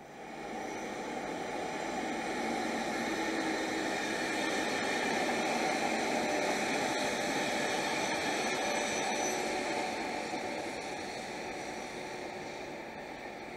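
Locomotive-hauled train passing: EF65 electric locomotive, Kaya 27 car and an EF81 electric locomotive at the rear. A steady rush of wheels on rail and running noise swells over the first couple of seconds and fades slowly from about ten seconds in.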